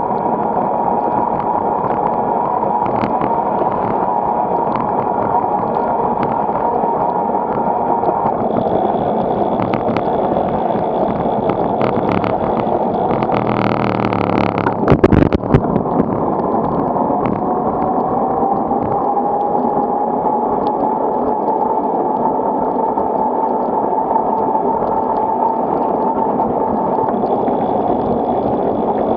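Steady, loud roar of wind distorting the microphone of a camera on a moving bicycle in typhoon wind and rain, with a brief cluster of loud knocks about 15 seconds in.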